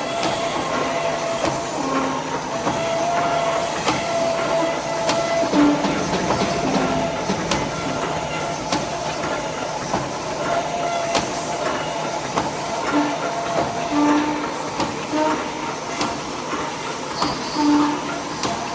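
Automatic wire mesh machine running: a steady mechanical clatter with a sharp click about once a second and short, recurring tones.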